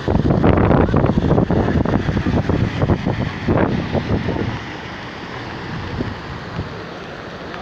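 Storm wind gusting hard against the microphone in rain, buffeting loudly for the first few seconds, then easing to a steadier rush about halfway through.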